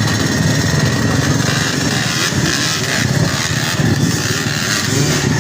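Dirt bike engines running loud and steady, without a break.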